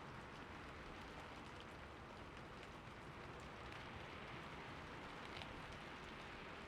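Heavy rain falling steadily, with separate drop hits heard now and then over the even hiss.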